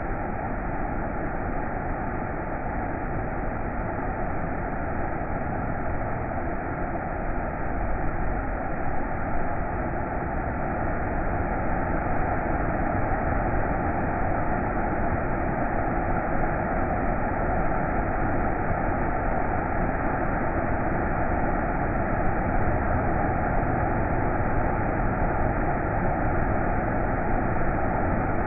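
Makhuntseti waterfall: a steady rush of falling water, growing a little louder about a third of the way in.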